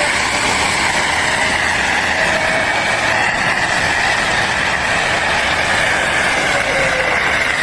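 Steady machine noise: a loud, even drone that holds at one level throughout.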